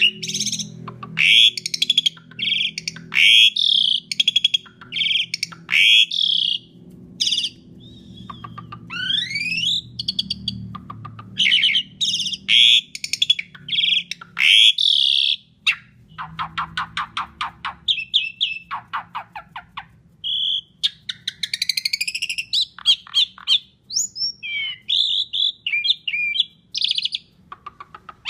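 Asian pied starling (jalak suren) singing loudly and almost without pause: a varied stream of harsh chirps and rising whistled sweeps, with a fast run of short repeated notes around the middle.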